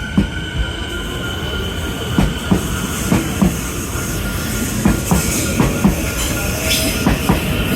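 A train running over the level crossing, its wheels knocking irregularly over rail joints above a steady rumble, with a steady high tone sounding throughout.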